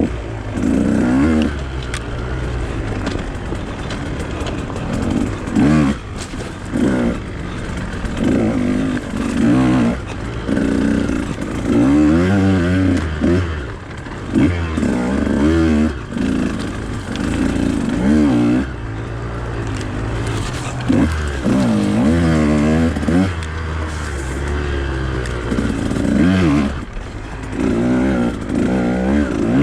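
Husqvarna TE 150 two-stroke dirt bike engine being ridden, revving up and falling back again and again as the throttle is opened and closed.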